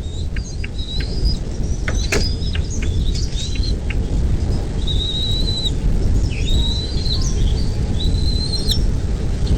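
Birds chirping: a run of short, high chirps, then several longer whistled notes from about halfway through, over a steady low rumble.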